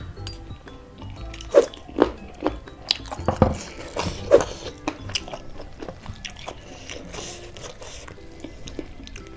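Close-up chewing of roast chicken and rice, with a run of sharp, loud bites and mouth clicks between about one and a half and four and a half seconds in, then quieter chewing. Background music plays throughout.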